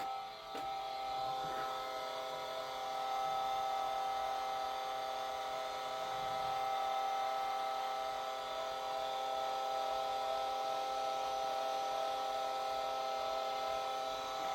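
A steady, even electrical whine from the Mini Cooper after it has been powered up, holding one pitch with several tones and not changing; it doesn't sound good.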